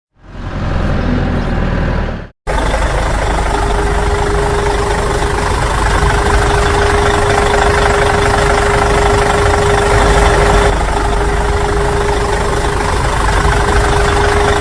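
An engine running steadily. It cuts off abruptly about two seconds in and starts again at once, and a steady whine joins about a second later.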